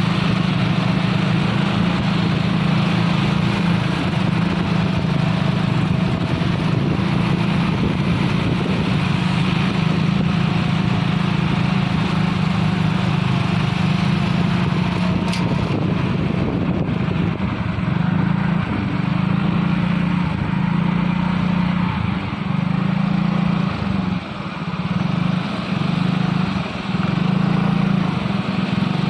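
Truck engine running under load as it climbs, a loud steady hum that wavers and dips several times in the second half, with a single sharp click about halfway through.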